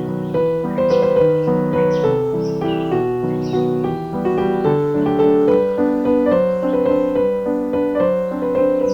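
Piano music: a melody over chords, several notes sounding together and changing every half second or so.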